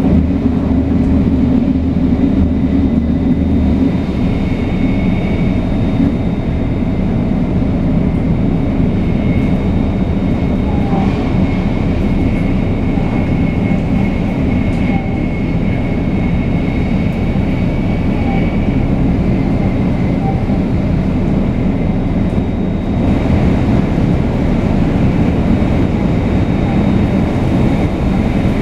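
500 series Shinkansen running at line speed: a steady rumble of wheels and running gear with faint high steady tones, which the recording credits to the Toshiba GTO-VVVF traction equipment. The hiss turns brighter late on.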